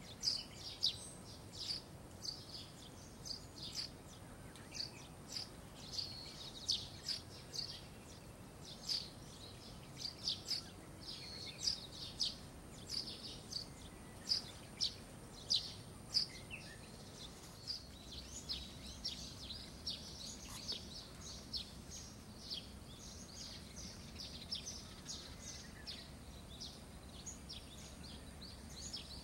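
Small birds chirping in many short, high calls, often several a second, over a faint steady background.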